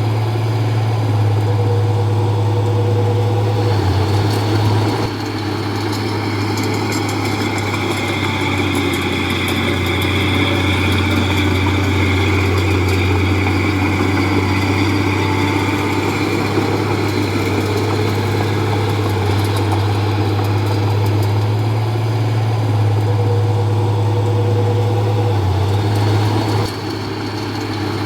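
Komatsu D31P bulldozer's diesel engine running steadily with a deep hum and a higher whine. It drops slightly in level about five seconds in and again near the end.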